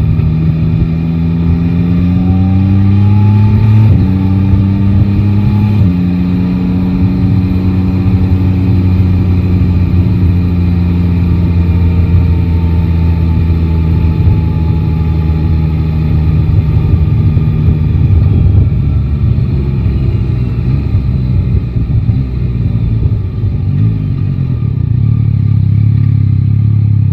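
Yamaha Tracer 9 GT's inline-three engine pulling hard through the gears over the first six seconds, with a sudden step in pitch at each shift, then running at steady revs at cruising speed.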